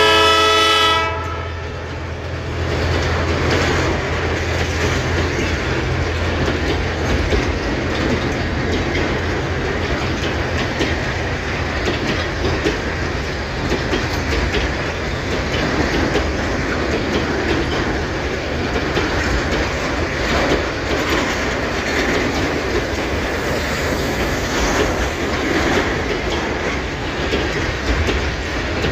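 Freight train of empty grain hopper wagons passing close by. The locomotive's horn sounds and cuts off about a second in, the locomotive's low rumble fades over the next few seconds, and the wagons then roll past with a steady clickety-clack of wheels over rail joints.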